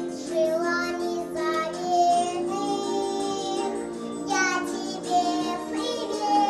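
A young girl singing a children's song in Russian over musical accompaniment, with long held notes that step up and down in pitch.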